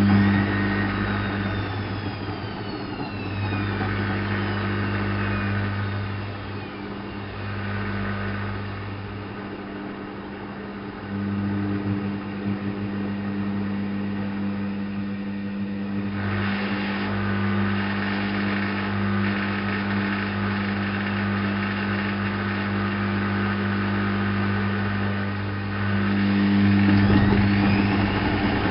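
ALASKA WA8200 E front-loading washing machine (a Balay-built Constructa VIVA) running. A steady electric hum comes and goes with short breaks, and whines fall in pitch in the first few seconds as the drum motor slows. Near the end a rising whine returns as the motor speeds up again.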